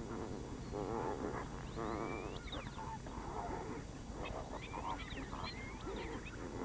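A large flamingo flock calling: many overlapping nasal honking and gabbling calls, some sliding up and down in pitch.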